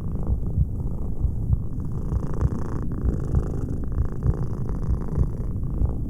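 Domestic cat purring close up: a steady low rumble that swells and eases in phases a second or so long.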